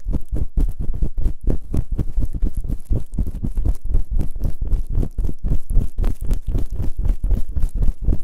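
Fast, rhythmic rubbing and scraping on both ears of a binaural dummy-head microphone, about six or seven deep, rumbling strokes a second, close up and loud.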